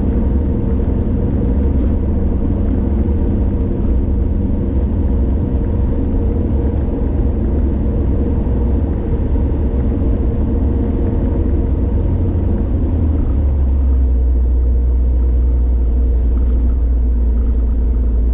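A car driving at highway speed: a steady low rumble of tyre and engine noise, which grows a little deeper and stronger about two-thirds of the way through.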